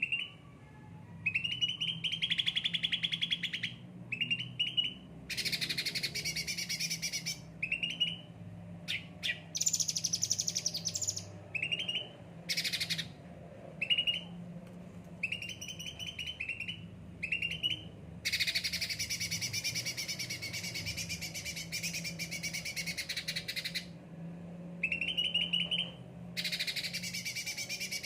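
Cucak ranting songbird singing: short repeated chirps alternate with long, fast trilling passages, the longest lasting about six seconds. A faint steady low hum runs underneath.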